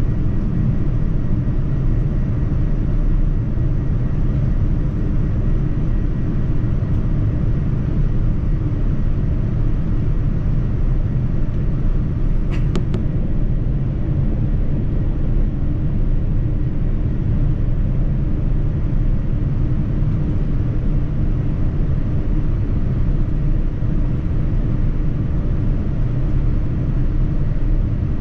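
Steady low rumble of cabin noise aboard a Boeing 787-9 airliner, with one brief click about halfway through.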